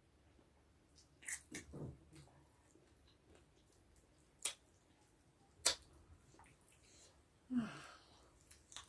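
Eating sounds of spicy chicken feet being chewed and sucked: scattered sharp smacks and clicks of lips, teeth and bone, with a short hum about three-quarters of the way through.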